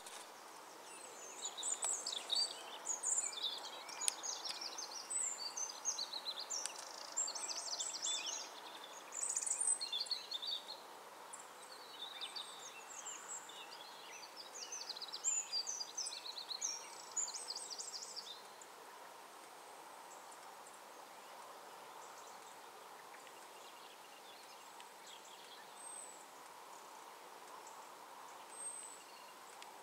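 Songbirds chirping at dawn: a dense run of short, high calls that thins out after about 18 seconds to a few faint calls, over a faint steady background noise.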